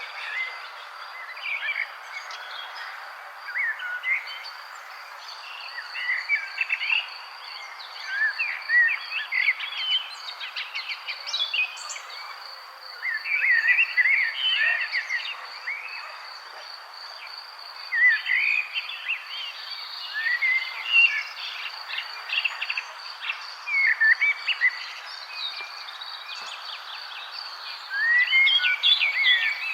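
Several songbirds chirping and singing in short, overlapping phrases, busiest in clusters with quieter gaps between. A steady, evenly pulsing high trill runs beneath them.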